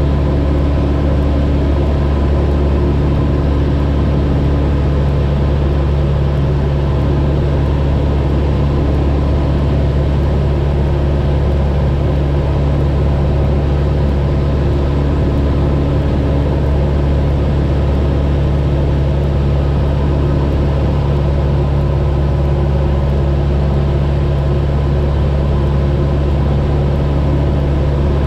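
Cessna 172's piston engine and propeller droning steadily in flight, with no change in pitch or level.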